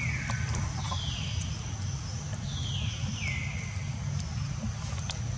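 A bird calling four times, each a short note falling in pitch, over a steady low hum and a thin, high, steady tone.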